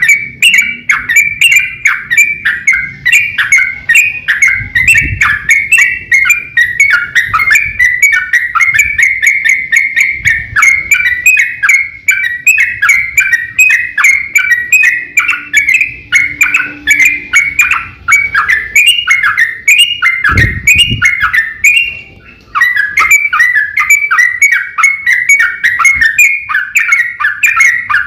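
Yellow-vented bulbul (trucuk) singing in the fast 'ropel' style: a rapid, unbroken run of chirping notes, several a second, with one short break about three-quarters of the way through.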